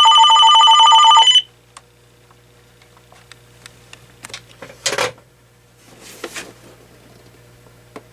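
AT&T 7720 cordless phone's electronic ringer sounding a rapid warbling trill, cutting off about a second and a half in. Then come scattered clicks and a couple of short rustles from handling the phone.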